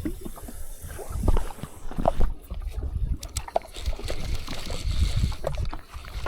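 Water lapping and splashing against a small boat's hull, with scattered light knocks and an uneven low rumble.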